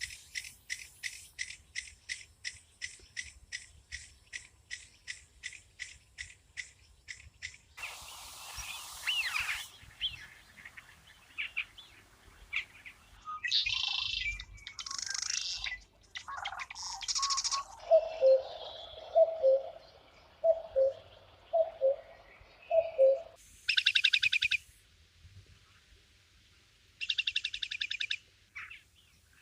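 Bird calls of several kinds, one after another. First comes a fast, even run of high chirps, then assorted calls, then five low two-note calls about a second apart, and near the end two short buzzy trills.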